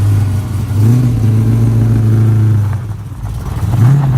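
LS V8 engine of a BMW E92 drift car running, revved up about a second in and held for a couple of seconds, then dropping back before a second short blip near the end.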